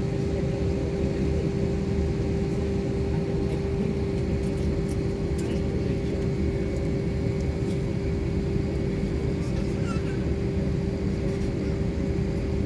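Steady drone of an airliner's engines and airflow heard inside the passenger cabin, a deep rumble with a constant hum over it.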